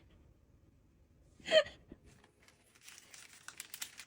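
A short gasp-like voice sound about a second and a half in, then faint crinkling and clicking of plastic food packaging being handled.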